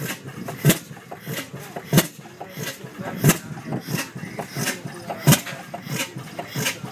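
Antique two-stroke oilfield gas engines running slowly. The loudest engine gives a sharp exhaust bang about every one and a half seconds, with one longer gap, and fainter beats from other engines fall in between.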